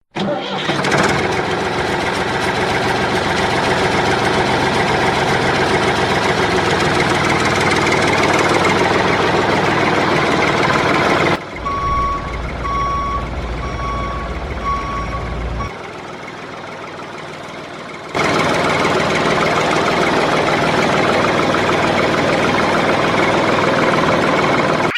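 A motor vehicle engine running steadily. In the middle it breaks off for a low rumble with five evenly spaced high beeps, like a reversing alarm, then a quieter stretch, before the engine sound cuts back in abruptly.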